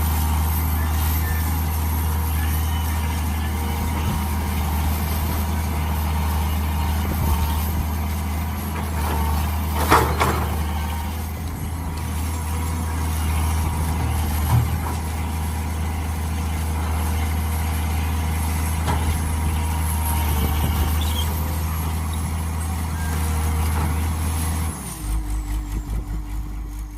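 Mini excavator's diesel engine running steadily under work, with a sharp clank about ten seconds in. Near the end the engine drops to a slow pulsing chug as it winds down.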